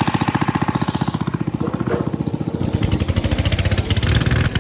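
Cub Cadet lawn tractor engine running hard with its governor tied open, a fast, even exhaust beat through a muffler that is nearly gone.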